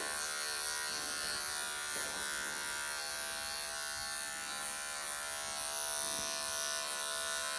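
Wahl electric pet clippers running with a steady buzz, shaving the matted fur from a Persian kitten's belly and back legs.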